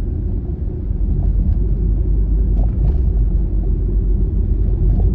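Steady low rumble of road and engine noise inside a moving Honda Freed minivan, a little louder from about a second in.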